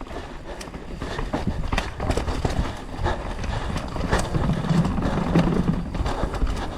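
Mountain bike rattling and clattering over rough trail: irregular knocks and clicks from the bike over a steady rumble of tyres and wind.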